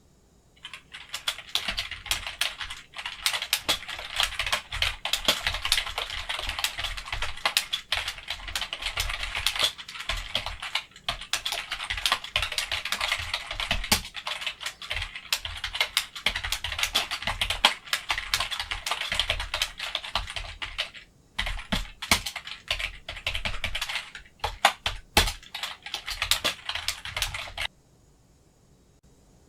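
Rapid typing on a computer keyboard: a dense, continuous clatter of keystrokes that starts about a second in, breaks off briefly about two-thirds of the way through, and stops near the end.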